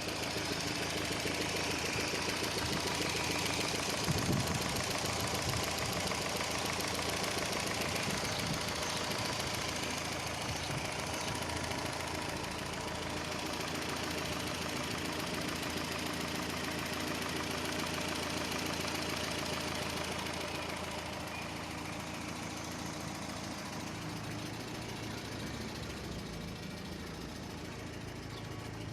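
Renault 25 engine, transplanted into a Renault 12, running steadily at idle.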